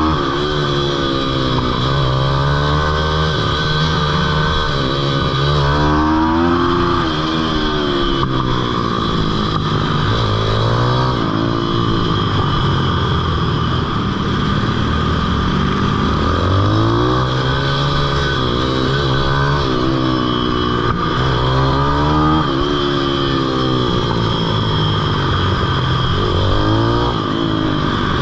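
Pitbike's small single-cylinder engine at full load, its pitch rising and falling again and again as the throttle is opened and shut, over a steady rush of wind and road noise.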